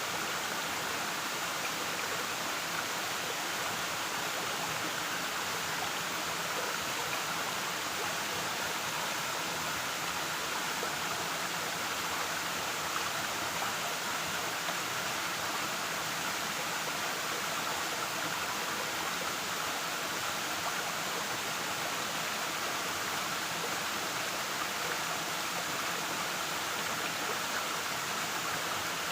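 Waterfall water rushing and splashing in a steady, unbroken roar of white noise.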